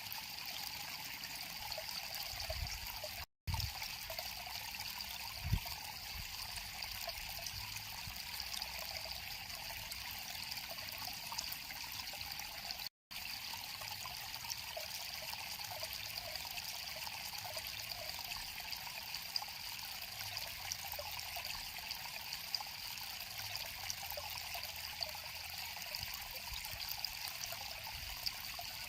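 River water flowing steadily, an even rushing noise. It cuts out to silence for an instant about three seconds in and again about thirteen seconds in, with a brief low thud about five seconds in.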